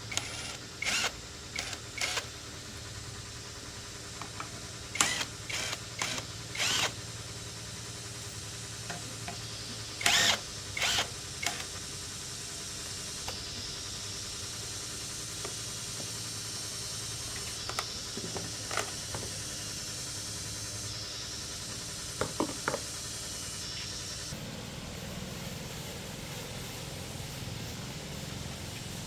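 Scattered sharp clicks and knocks, in clusters, over a steady low hum, with a hiss through the middle stretch.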